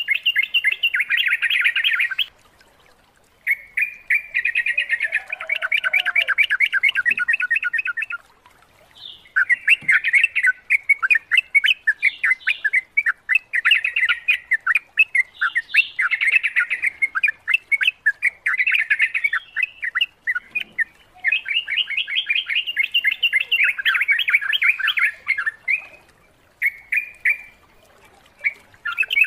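Yellow-vented bulbul (trucukan) singing in bouts of rapid, bubbling chatter, with a few short pauses between phrases.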